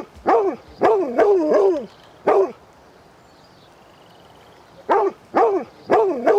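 A dog barking in two bouts: about six barks in quick succession, a pause of a couple of seconds, then three more barks near the end.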